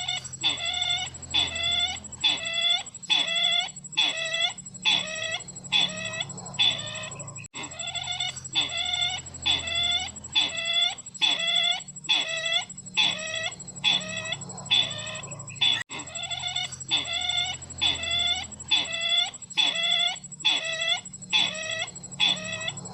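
Recorded call of the sisintar ladang bird, played as a lure for bird trapping: a short pitched call repeated about twice a second. The recording loops, breaking off briefly about every eight seconds, with a thin steady high tone running under it.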